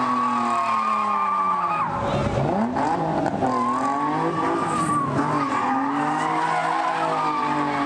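Car doing a burnout: engine revving hard with tyres squealing steadily, the revs dropping and climbing again about two seconds in and once more around five seconds.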